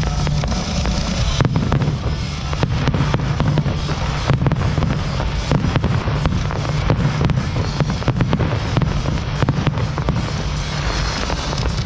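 Fireworks display bursting: a rapid, irregular run of bangs and crackles, with music playing underneath.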